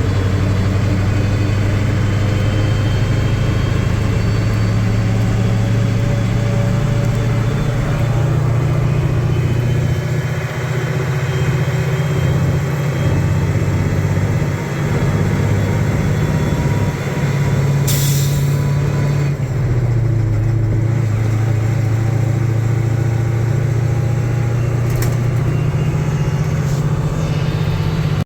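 Caterpillar 3208 naturally aspirated V8 diesel in a 1972 Ford L8000 dump truck running under way, its note dropping and picking up again a few times. A short burst of air hiss comes about eighteen seconds in.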